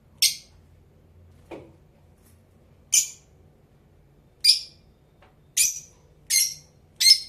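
Blue Fischer's lovebird giving six short, shrill calls, coming closer together toward the end.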